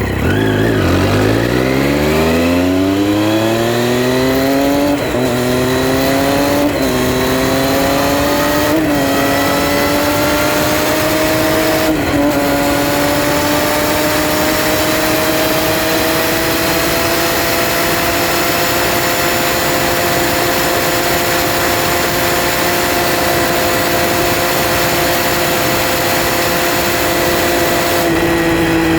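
Triumph Street Triple R's 675 cc inline-three engine pulling hard under acceleration, its note climbing steeply and then with four brief breaks as it changes up through the gears, before settling into a steady, slowly rising cruise note that eases off slightly near the end.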